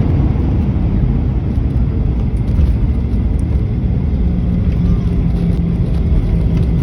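Steady low rumble in the cabin of a Boeing 737 rolling on the ground just after landing, engine and wheel noise together, with a steady low hum joining about four seconds in.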